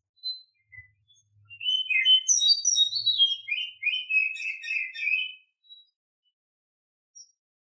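Female Oriental magpie-robin singing in breeding condition, the kind of song used as a lure to excite males: a few short single notes, then a quick run of varied whistled and scratchy notes lasting about four seconds, and one last short note near the end.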